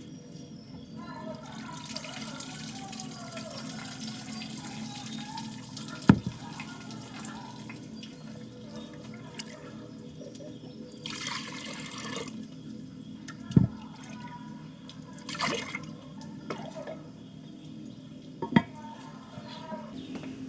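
Water splashing and trickling, as in washing by hand, over a steady low hum, with three sharp knocks spread through.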